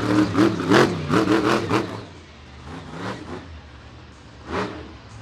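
Monster truck engine revving in a series of quick throttle blips, pitch rising and falling, for about two seconds. It then drops back, with one more short rev near the end.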